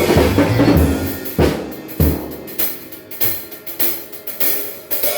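ADW Astro 5 drum kit being played, with bass drum and snare hits. A dense run of strokes thins after about a second and a half into single strikes roughly every half second, each ringing out before the next.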